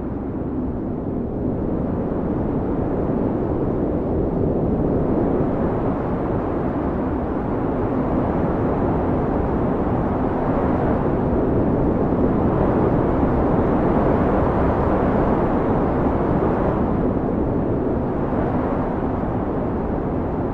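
Blizzard wind blowing hard, a deep, steady rush that swells and eases in slow gusts, loudest around the middle. A faint steady low hum runs underneath.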